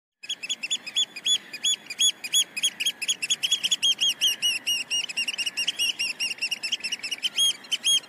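Small bird chirping rapidly: a continuous run of short, high rise-and-fall notes, several a second, over a faint hiss.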